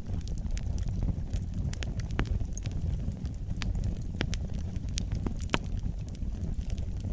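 Fire in a fireplace crackling, with irregular sharp pops and snaps over a steady low rumble; a few louder pops stand out about two, four and five and a half seconds in.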